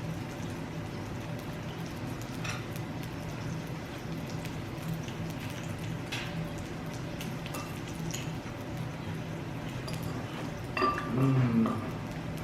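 Quiet meal sounds: occasional faint clinks of cutlery and dishes over a steady low hum, with one short, louder voiced sound about eleven seconds in.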